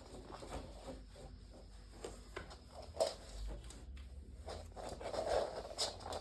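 Irregular close-up rubbing and rustling, with a few sharp clicks, loudest about three seconds in and again near the end.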